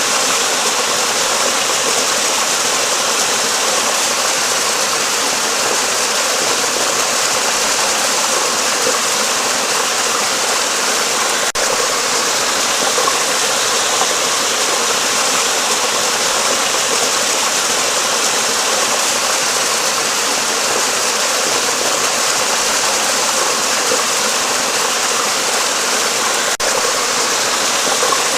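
Steady rush of flowing water, a stream or river running hard, even and unbroken apart from two very brief breaks, one near the middle and one near the end.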